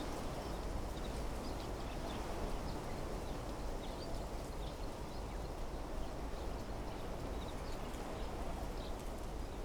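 Wind blowing steadily through trees, with scattered short, high chirps and ticks from birds and insects over it.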